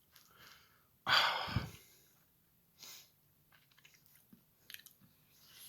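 Mouth and breath sounds close to the microphone: a loud breath rush about a second in, a softer one a couple of seconds later, and small mouth clicks.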